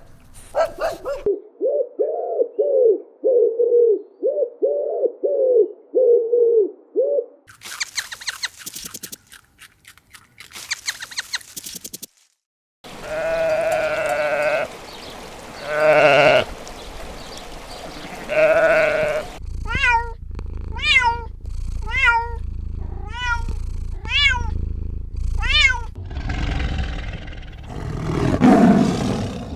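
A string of farm animal calls from separate clips: first a quick run of repeated calls, then a stretch of clicking, then a few longer pitched calls, and near the end a series of short calls that each fall sharply in pitch over a low hum.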